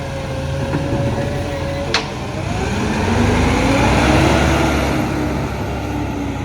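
Garbage truck with a steady whine, then a sharp click about two seconds in, after which its engine accelerates with rising pitch, loudest about four seconds in.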